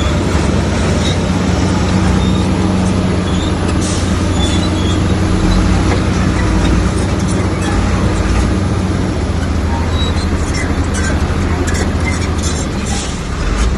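Komatsu bulldozer's diesel engine running steadily under load, with a low, even hum.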